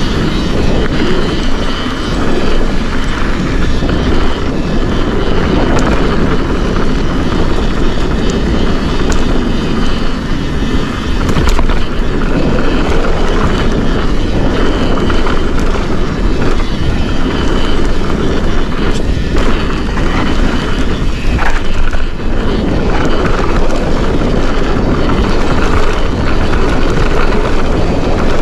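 Forbidden Dreadnought full-suspension mountain bike descending a trail: a steady rush of wind and tyre rumble over dirt, with occasional sharp clicks and rattles from the bike.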